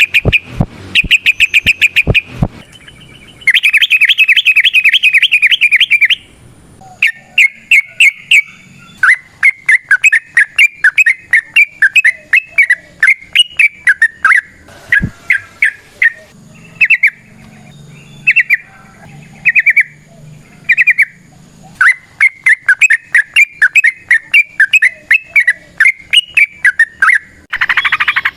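Yellow-vented bulbul (trucukan) singing its long, rapid 'ropel' song: fast runs of bright chirping notes in phrases a few seconds long, with short pauses between them.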